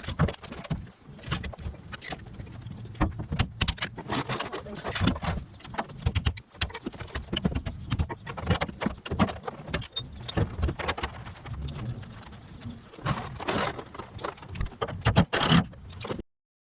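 Metal tools and suspension parts clinking and clattering as they are handled, a steady run of sharp knocks and jingles that cuts off abruptly near the end.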